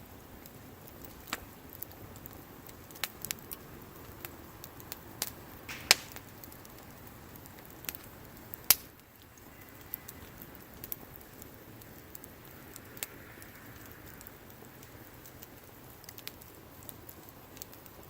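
Wood bonfire crackling, with irregular sharp pops and snaps, two of them loud, and a soft hiss for a few seconds in the middle.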